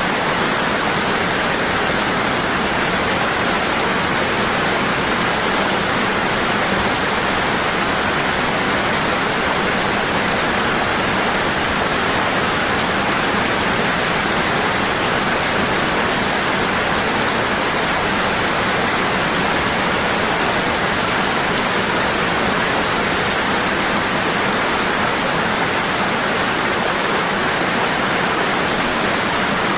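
Waterfall: water falling hard and steady, a constant dense rush with no breaks.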